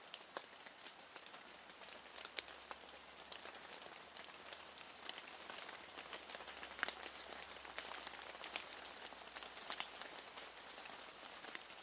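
Steady rain hiss with many scattered individual raindrops ticking sharply against a window.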